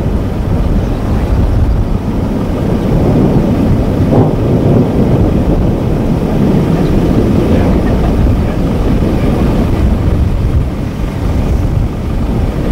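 Steady, loud, low rumbling noise with no clear pitch and no sharp breaks.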